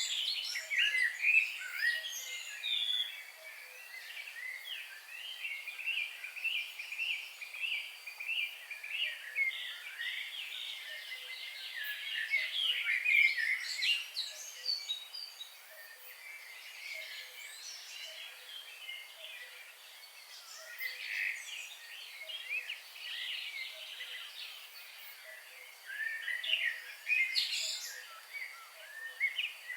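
Several songbirds singing and calling at once, their chirps and trills overlapping throughout. A few seconds in, one bird repeats a short note about twice a second for several seconds.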